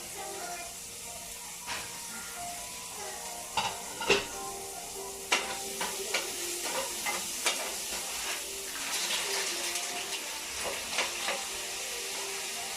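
Food sizzling as it fries in a pan, a steady hiss, with about a dozen sharp clacks of a utensil against the pan as it is stirred.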